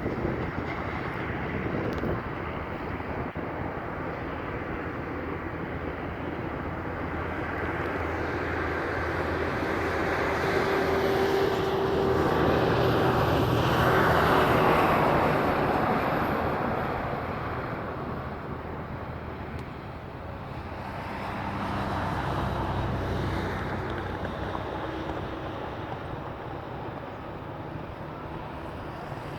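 Trucks passing on a highway: engine and road noise that swells to its loudest about halfway through and fades away, then a smaller second swell as another vehicle goes by.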